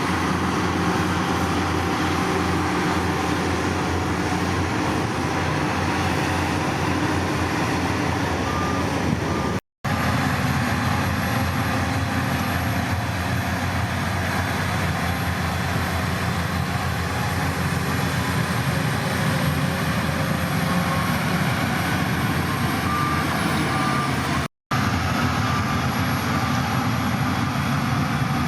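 Heavy construction machinery's diesel engine running steadily under load, cut off twice for a split second.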